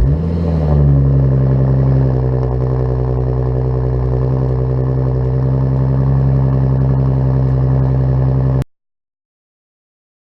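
2014 Audi S4 with a Fast Intentions aftermarket exhaust catching on start-up, flaring briefly in pitch and then settling into a steady idle. The sound cuts off suddenly about eight and a half seconds in.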